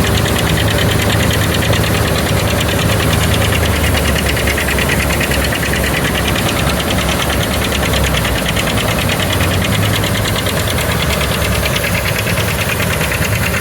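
Old harvesting machinery running steadily during a soybean harvest: an engine running under load with a fast, even mechanical clatter over a constant low hum.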